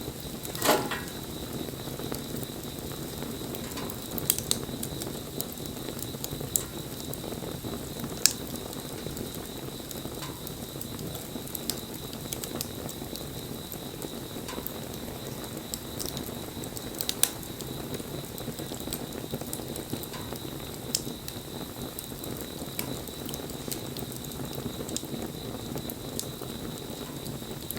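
Wood bonfire burning: a steady low rush of flames with scattered sharp crackles and pops, one louder pop about a second in.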